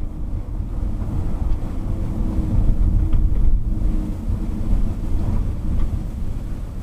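Steady low rumble of a vehicle driving, with tyre and wind noise as picked up by a dashcam.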